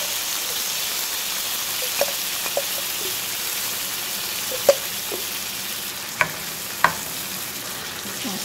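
Navy beans, onions and bell peppers sizzling in bacon grease in a cast-iron skillet as they are stirred with a wooden spoon: a steady hiss with several sharp knocks of the spoon against the pan.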